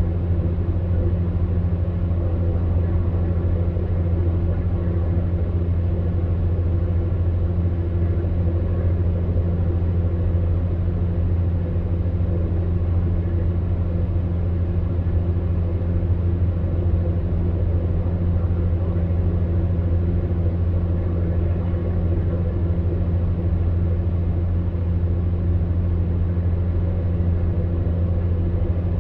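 Electric fan heater running steadily: a low, even hum with a few fixed tones above it and a soft rush of blown air.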